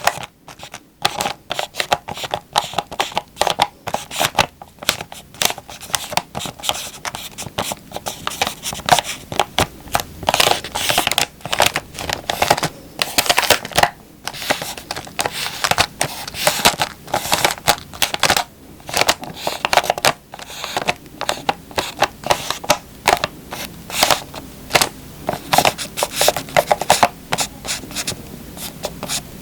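An instant ramen packet (Jin Ramen Mild) being handled, its plastic wrapper crinkling and rustling in a dense, uneven run of sharp crackles.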